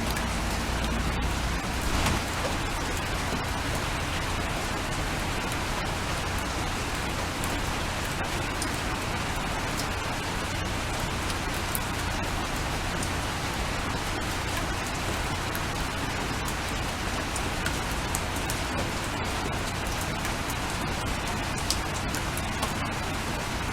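Steady rain falling, with scattered single drops ticking on a hard surface.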